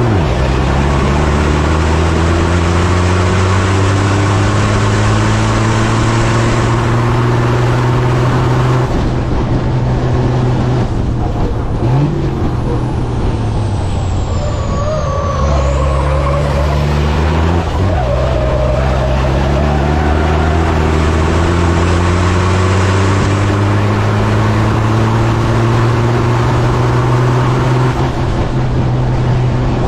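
Racing truck's diesel engine pulling hard under load, its pitch climbing slowly through long drawn-out accelerations. The power drops off about a third of the way in, with a lighter-load stretch and a faint high whistle, then comes back on. It lifts briefly again about three-quarters through before climbing once more.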